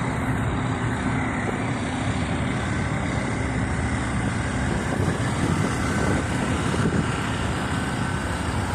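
A motor vehicle's engine running steadily at idle: an even low drone with no changes in speed.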